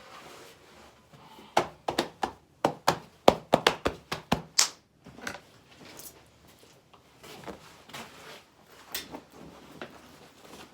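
A rapid run of sharp knocks and thuds, about a dozen in three seconds, then a short hiss and a few fainter knocks.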